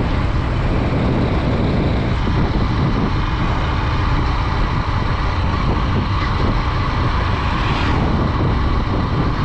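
Steady riding noise of a Honda Dream 110 motorcycle underway: its 110cc single-cylinder engine running under way, mixed with wind rush on the microphone.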